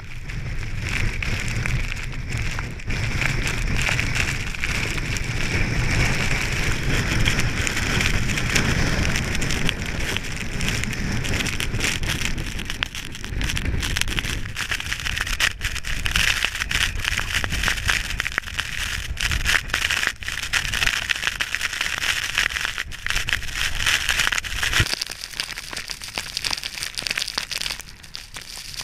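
Blizzard wind buffeting the microphone with a deep rumble, along with a hiss and many small ticks from driven snow. The low rumble of the wind drops away about 25 seconds in, leaving the hiss and ticks.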